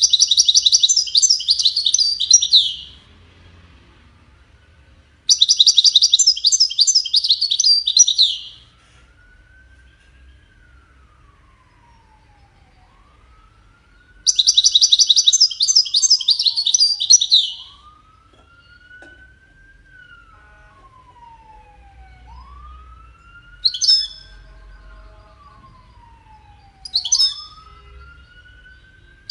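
European goldfinch song: three rapid twittering, trilling phrases of about three seconds each with pauses between, then two short sharp calls near the end. A faint, slow rising-and-falling wail like a distant siren repeats in the background through the second half.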